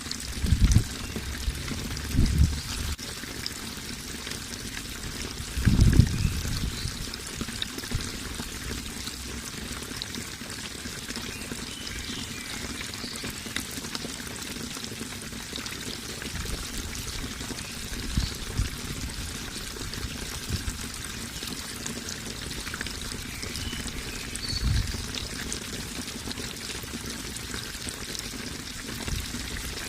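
Running water pouring and trickling steadily. Several short low thumps break in, the loudest about six seconds in.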